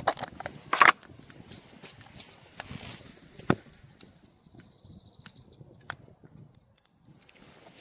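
Irregular clicks and knocks, the loudest about a second in and another about three and a half seconds in, with a faint high steady tone for about a second in the middle.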